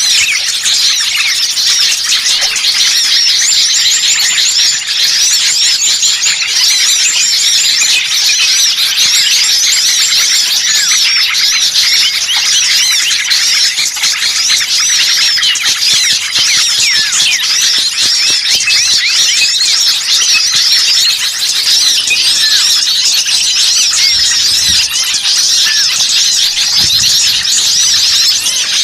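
Bird-lure recording of a dense, noisy chorus of many small songbirds calling at once: a continuous tangle of overlapping high-pitched chirps and squeaks with no pause.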